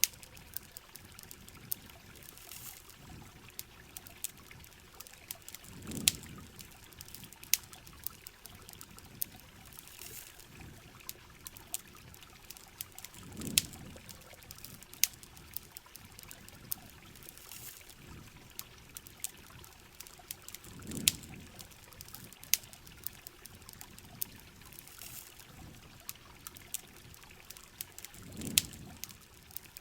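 Steady rain with a wood campfire crackling and popping in sharp clicks. A low whoosh swells and fades about every seven to eight seconds.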